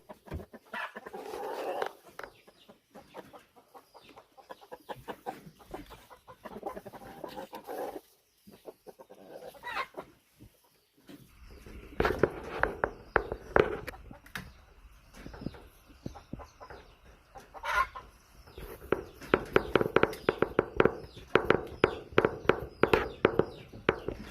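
Chickens clucking in patches of quick, repeated short sounds, with a few brief louder calls now and then.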